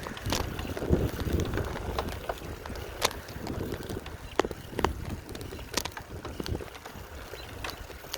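Wind rumbling on a handheld phone's microphone while riding a bicycle slowly, with scattered sharp clicks and rattles.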